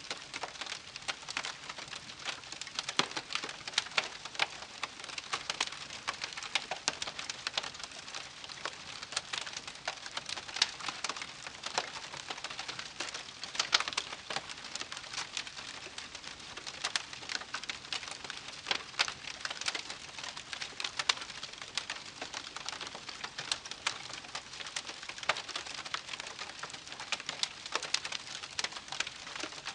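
Wood campfire crackling, with a steady hiss and frequent irregular sharp pops and snaps.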